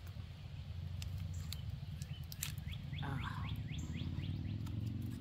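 A bird calls a quick run of short descending chirps, about six a second, starting about three seconds in, over a steady low rumble. A few sharp crackles come from the MRE cracker pouch being handled.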